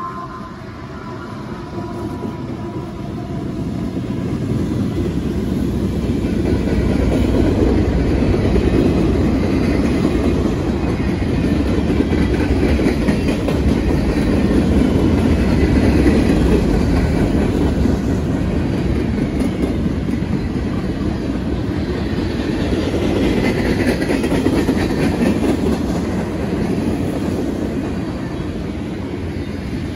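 A freight train of boxcars and covered hopper cars rolling past close by: a steady rumble of steel wheels on rail with clickety-clack over the rail joints, growing louder over the first several seconds. Faint high squeals come and go in the middle and near the end.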